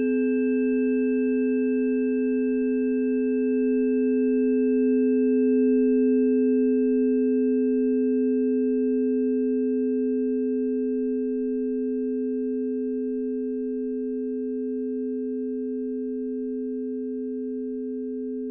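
Sustained ringing of a sound-bath instrument: two steady low tones with fainter high overtones, swelling a little over the first few seconds and then slowly fading.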